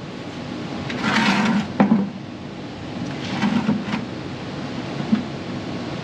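Scraping and sliding noises with a few sharp knocks from metal tools and parts being handled during tractor repair, over a steady background hum.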